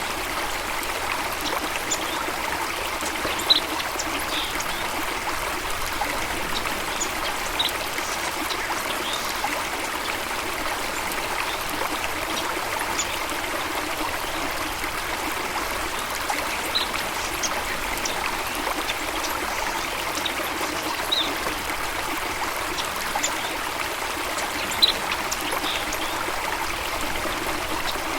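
Water running steadily, like a stream or small waterfall, with birds giving short high chirps now and then; the loudest chirps come about three and a half seconds in and near the end.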